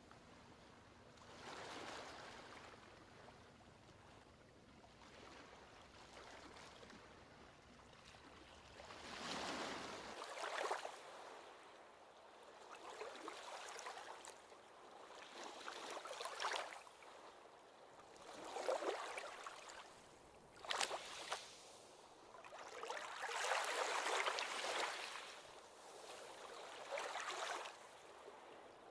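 Small ocean waves washing in and draining back, the rush swelling and fading every few seconds.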